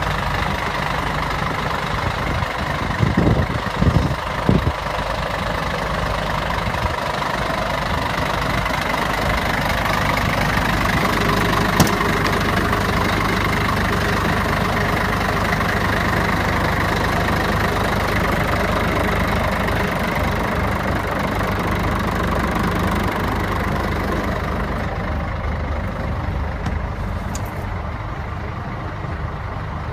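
Scania 114 truck's diesel engine idling steadily, with a few short knocks about three to four seconds in.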